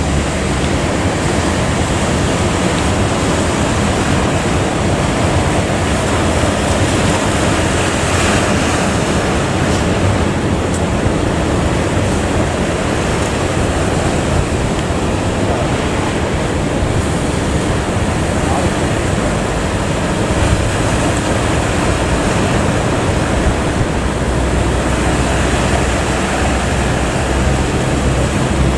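Steady rush of sea and wind noise aboard a ship, with a low engine hum coming in during the last third.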